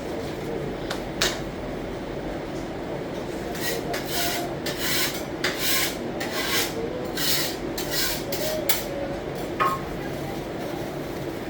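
A run of short, rasping scrapes, about ten strokes over several seconds, over a steady low rumble, with a sharp click near the start and another near the end.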